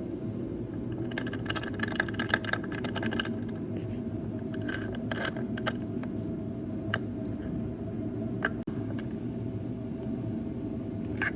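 Metal hand tools clinking and rattling against exhaust manifold hardware: a quick run of ringing clinks in the first few seconds, then scattered single clicks, over a steady low shop hum.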